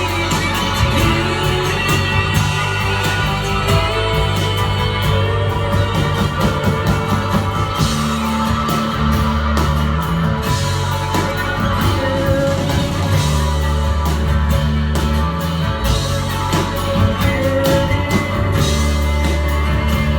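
A live band playing a song, with a steady beat and sustained low notes throughout.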